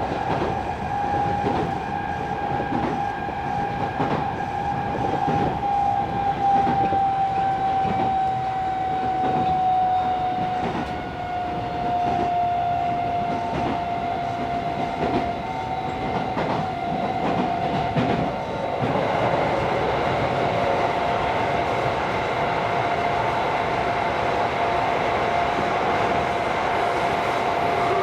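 Tokyo Metro 16000 series subway car running, heard from inside the car: a steady whine that slowly falls in pitch over rail-joint clicks, with a louder rushing noise setting in about two-thirds of the way through.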